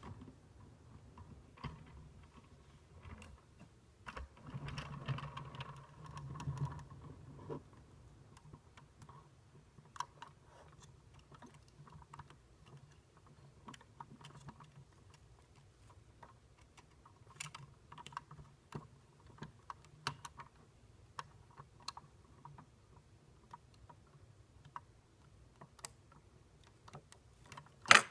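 Light plastic clicks and taps from a toy garbage truck model, scattered and irregular, with a short stretch of busier rattling and a low hum about five seconds in. One sharp, louder click comes right at the end.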